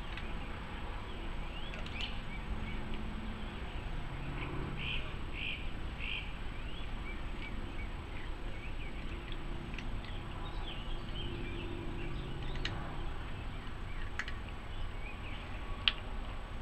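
Songbirds chirping in short repeated phrases over a steady low outdoor rumble, with a sharp click near the end.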